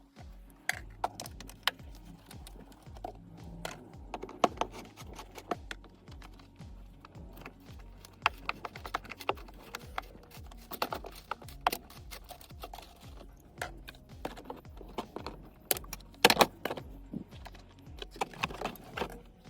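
Background music with a steady low beat, over irregular sharp clicks and rattles of hand tools and loose fasteners as a plastic wheel-arch liner is worked off.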